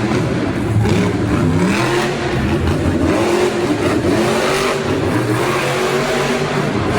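Monster truck engines revving and running hard, loud and continuous, their pitch rising and falling.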